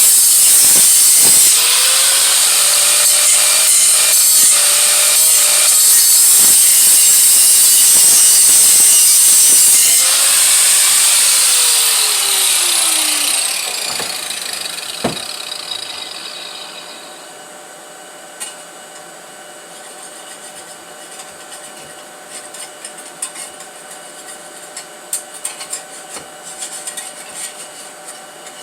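Power grinder running against a steel exhaust head pipe, a loud gritty grind with a motor whine. About eleven seconds in it is switched off and winds down with a falling whine, leaving quieter scraping and small taps of metal being worked by hand.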